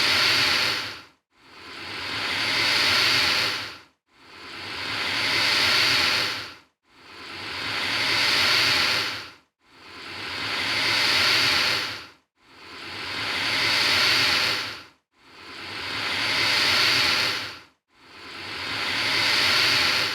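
Alligator hissing, the same hiss repeated over and over, about one every two and three-quarter seconds. Each hiss swells up and then cuts off sharply.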